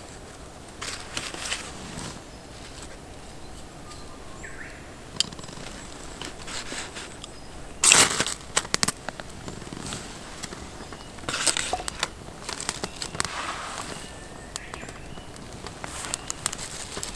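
Campfire crackling in irregular bursts of sharp pops, the loudest about eight seconds in.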